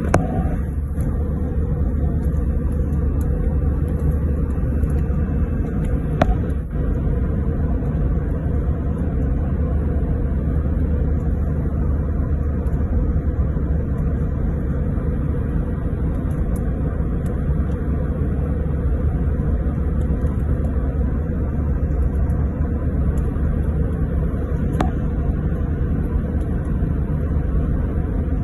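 Steady, loud in-flight cabin noise of an airliner: the constant rumble of the engines and airflow heard from inside the cabin, with a brief click about six seconds in.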